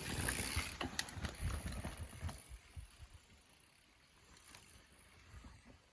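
Mountain bike ridden over a dirt trail: rattling clicks and knocks with tyre rumble for about two and a half seconds, then fading away to a few faint ticks.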